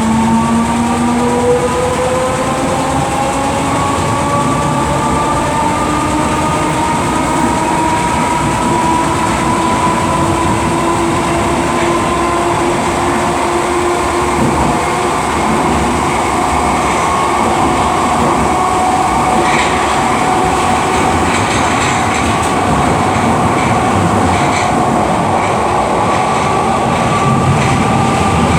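Merseyrail Class 508 electric multiple unit under way, heard from inside the carriage. Its traction motor whine rises slowly in pitch over the first ten seconds or so as the train gathers speed, then levels off, over a steady rumble of wheels on rail.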